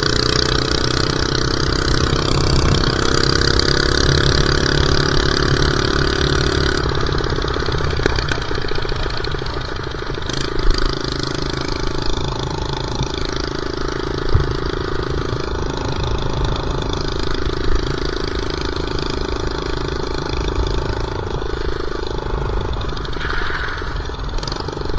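Minibike's small engine running under way, a steady tone that climbs slightly in the first few seconds, eases off about seven seconds in, then holds steady again; a couple of short knocks along the way.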